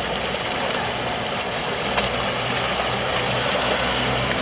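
An engine running steadily with a low hum, under a constant rushing noise.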